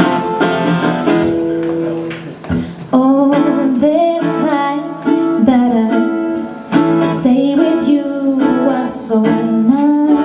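Acoustic guitar strumming chords, dropping briefly about two and a half seconds in. From about three seconds in, a singing voice carries a gliding melody over it.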